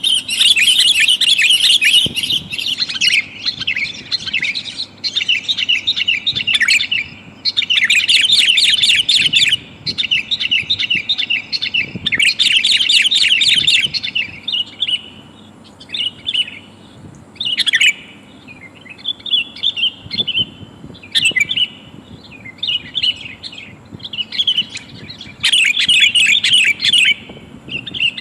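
Female sooty-headed bulbul (kutilang) calling to attract a male: runs of fast chattering notes, several loud runs of a second or two, with shorter, quieter calls between.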